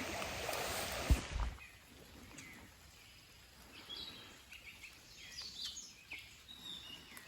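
Steady hiss of heavy rain for about the first second and a half, cut off with a short knock. After that it is quiet outdoor ambience with scattered short bird chirps.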